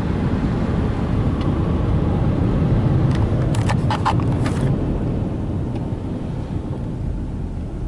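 Steady low rumble of a car moving, heard from inside the cabin, with a short run of sharp clicks around the middle.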